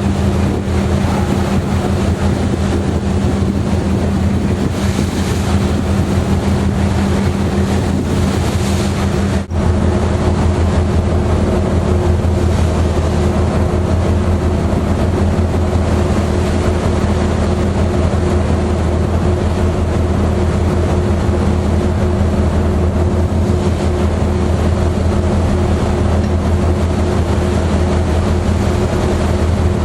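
Steady drone of a ferry's engines, a low hum with several fixed tones, over a constant rushing noise of wind and water. The sound drops out briefly about nine and a half seconds in.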